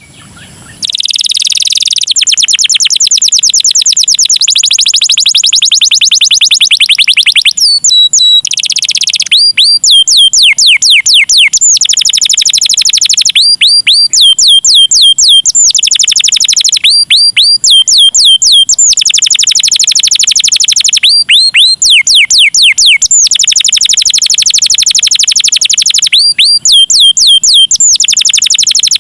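Domestic canary singing loudly in long, rapid trills of repeated high notes. Every couple of seconds the trills give way to runs of quick falling whistled notes, with brief pauses between phrases.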